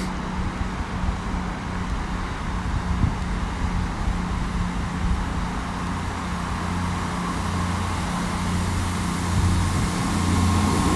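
South Western Railway multiple-unit train approaching along the platform, its steady low hum growing louder as it draws near, loudest near the end.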